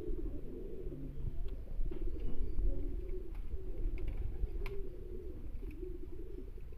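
Domestic pigeons cooing steadily in a loft, with a few sharp clicks and taps scattered through.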